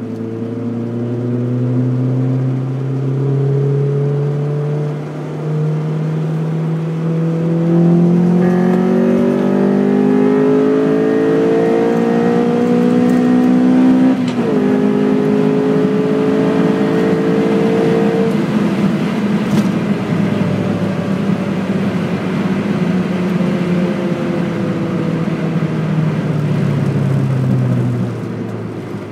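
Honda Civic EE9's 1.6-litre DOHC VTEC four-cylinder heard from inside the cabin as the car accelerates. The engine note climbs with a brief dip about five seconds in, rises steeply to a sudden drop in pitch at a gear change about fourteen seconds in, holds steady for a few seconds, then slowly falls away as the car slows.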